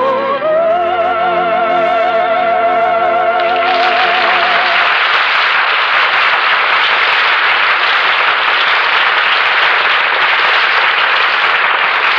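A singer holds the last note of a song with vibrato over the orchestra, stepping up in pitch just after the start and ending about four seconds in. Then a studio audience applauds steadily and loudly.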